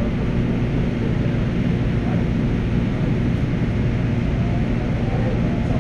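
Steady rumble of a light-rail train car running, heard from inside the car.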